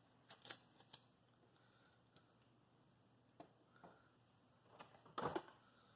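Sparse faint clicks and light knocks of small metal mount parts and tools being picked up and set down on a workbench, with a few in the first second and the loudest cluster about five seconds in.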